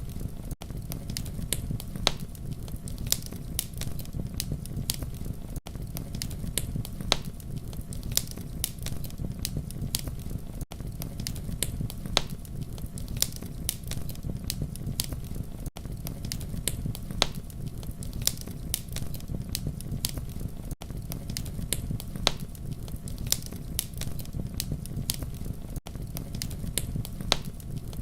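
Campfire crackling: frequent sharp pops and snaps over a steady low rumble of flames, with a brief dropout about every five seconds.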